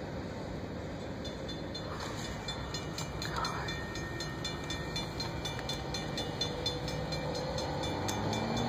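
Norfolk Southern freight train running past with a steady rumble, heard from inside a car. A grade-crossing bell rings rapidly, about four strikes a second, from about a second in.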